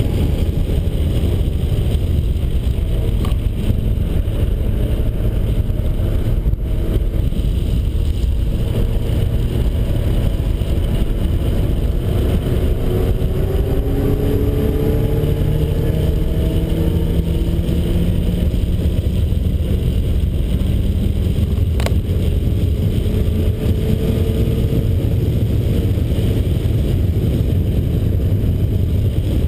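Turbocharged 1.9-litre stroker four-cylinder of a 1991 Mazda Miata running hard on track, its pitch repeatedly climbing under acceleration and dropping back. A single sharp click about 22 seconds in.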